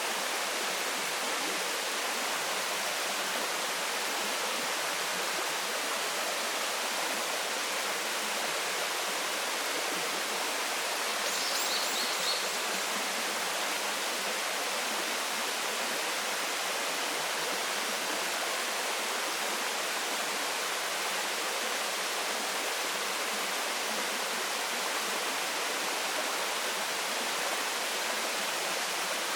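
Waterfall pouring steadily: a constant, even rush of falling water. A brief high chirp sounds about twelve seconds in.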